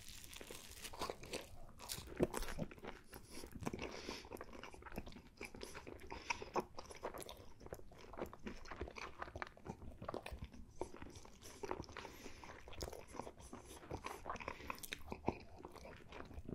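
Close-miked chewing of a bite of pepperoni pizza: many small, irregular crunches and mouth clicks.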